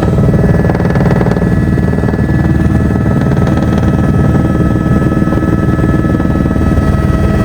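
Helicopter in flight heard from inside the cabin: loud, steady rotor and engine noise with a constant whine.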